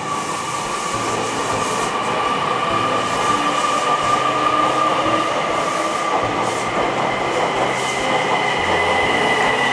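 A train running on the rails, with a steady high whine and a second whine that slowly rises in pitch.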